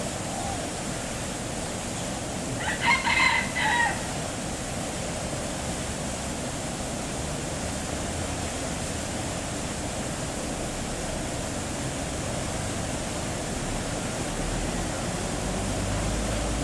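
A rooster crowing once, about three seconds in, a pitched call of a little over a second broken into several parts, over a steady background hiss. A low rumble starts near the end.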